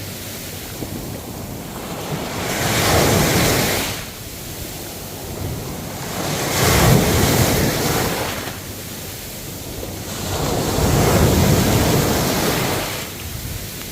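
Ocean waves breaking on the shore, three surges of surf that swell and wash back, each lasting two to three seconds.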